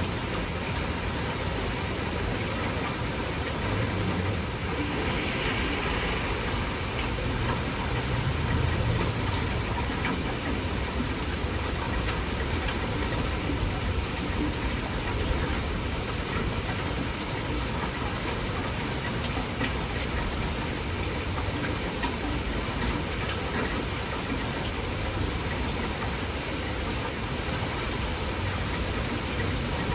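Heavy, torrential rain falling steadily.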